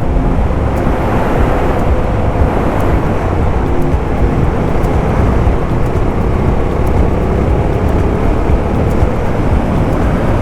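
Suzuki motorcycle riding at steady speed on a gravel highway: the engine runs at an even pitch under a dense rush of wind and tyre-on-gravel noise.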